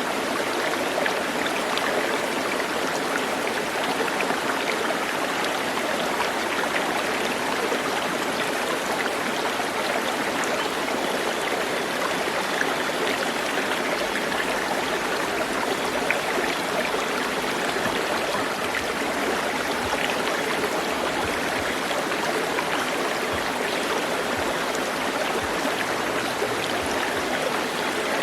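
Steady rush of running water, like a flowing stream, unchanging throughout.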